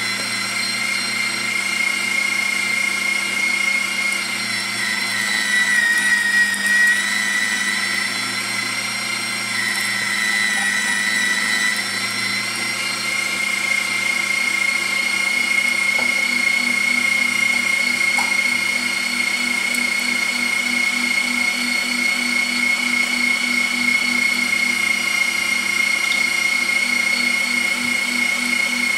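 Bosch MFW3640A electric meat mincer running with a steady, high motor whine. Its pitch dips briefly twice, about six and ten seconds in, then holds steady.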